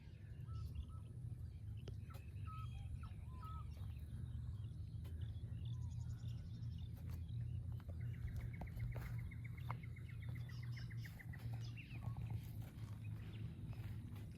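Small birds chirping, with one rapid trill of evenly spaced notes lasting about three seconds, over a steady low rumble.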